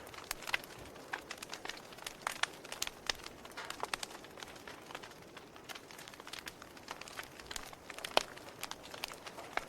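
Bonfire crackling: irregular snaps and pops of burning wood over a low steady hiss, with one sharper pop about eight seconds in.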